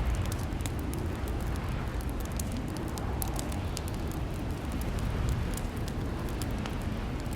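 Wood fire in a fireplace crackling, with many small sharp pops over a steady low rumble.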